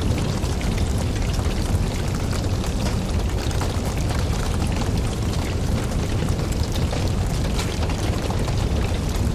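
Wood campfire burning: a steady low rush of flame with frequent small crackles and pops of burning wood.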